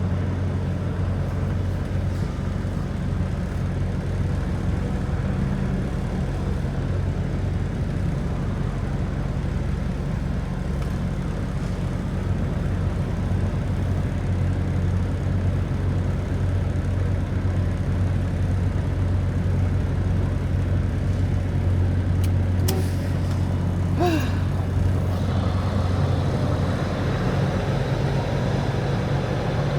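Semi truck's diesel engine running steadily at low revs while the rig is backed into a dock. A couple of brief sharp sounds and a short squeak come about 23 and 24 seconds in.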